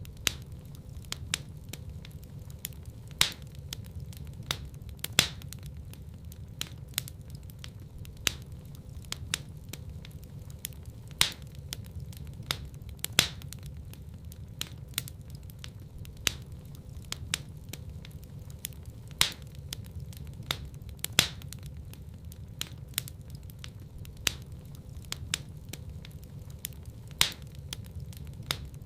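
Wood fire crackling, with frequent sharp pops and snaps, some louder ones every few seconds, over a steady low rumble of the flames.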